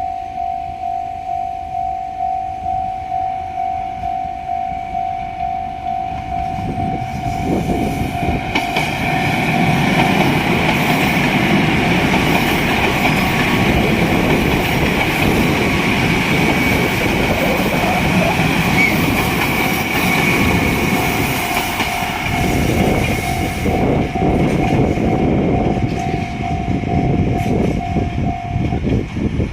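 A Japanese level-crossing alarm rings as a steady repeating electronic tone, about one and a half strikes a second, and stops near the end. A JR Hokkaido KiHa 261 series 5000 diesel limited express passes over the crossing from about seven seconds in, with a loud rumble of wheels on rail and a high ringing band near 2 kHz. It fades after about twenty-two seconds.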